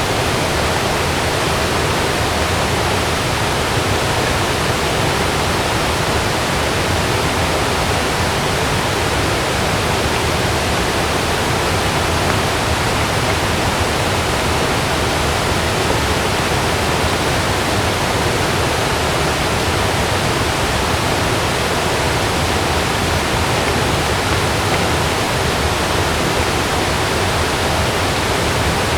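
Heavy rain falling steadily on a camping tent, an even unbroken hiss with no thunder.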